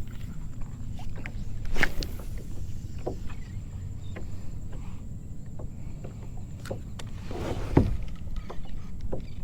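Kayak on the water: steady low water-and-wind rumble with scattered knocks and clicks of paddle and gear against the hull. There are two louder hits, about two seconds in and near the end.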